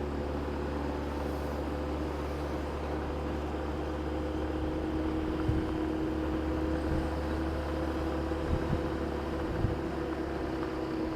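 Motorcycle engine running steadily at road speed, with wind and road noise from riding on the bike in traffic.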